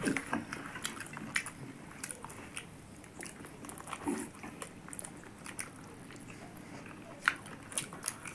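Chewing and lip smacking of two people eating rice and curry by hand, with scattered soft clicks and a brief low hum about four seconds in.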